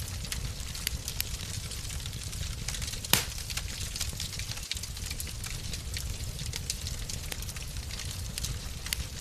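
Fireplace fire burning: a steady low rumble with scattered crackles, and one louder pop about three seconds in.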